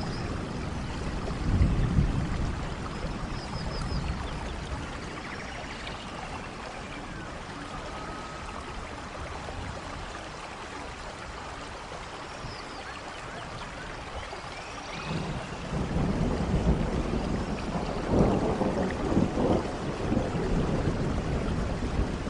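Steady rain with thunder rumbling: a short rumble about two seconds in, then a longer, louder rolling rumble from about two-thirds of the way through.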